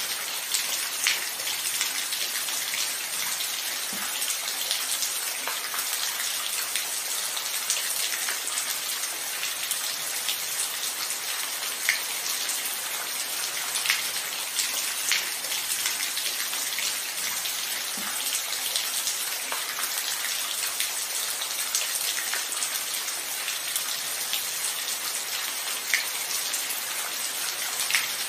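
Steady rain falling, with a hiss and separate louder drops tapping a surface every few seconds.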